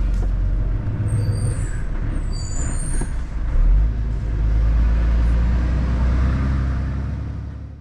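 Lorry's diesel engine running with a steady low rumble, with a few brief high squeaks about one to three seconds in.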